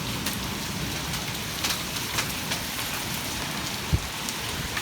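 Heavy rain mixed with hail: a steady hiss of rain broken by scattered sharp clicks of hailstones striking hard surfaces. There is a dull thump about four seconds in.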